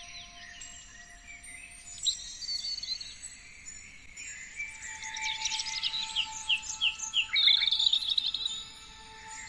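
Several songbirds chirping and trilling in a busy chorus, densest about halfway through, with quick rapid trills and short falling notes. A few faint held tones sound steadily underneath.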